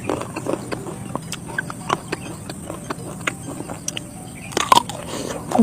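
Close-miked chewing and lip smacking while eating: a steady string of short wet clicks, with a louder mouth sound about four and a half seconds in.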